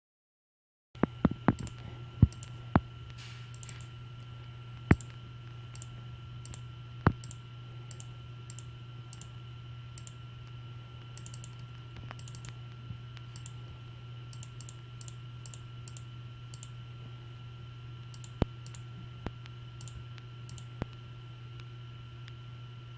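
Scattered sharp clicks from a computer's mouse and keyboard being worked, a cluster of them about a second in and a few more later, over a steady electrical hum and fainter regular ticking.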